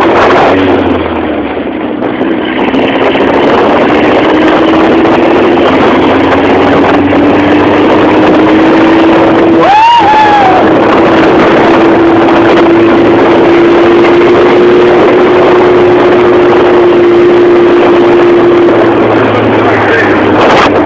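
Off-road buggy's engine running continuously while under way, over dense wind and trail noise; its pitch climbs slowly and eases off near the end. A short high call rises and falls about halfway through.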